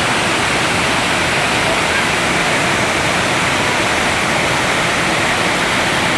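Waterfall pouring heavily with a steady, dense rush of water, swollen with high flow after typhoon rain.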